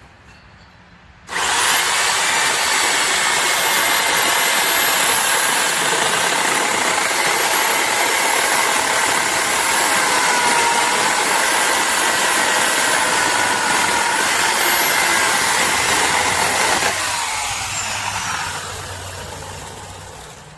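Electric chainsaw starting suddenly about a second in and running at full speed with a steady high whine, then shutting off near the end, its motor and chain winding down with a falling pitch.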